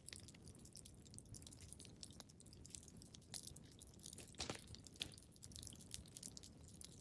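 Wood fire crackling in a fireplace: irregular small snaps and pops over a low rumble, with a couple of louder pops a little past halfway.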